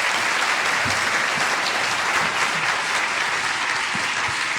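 A large audience applauding steadily with dense clapping.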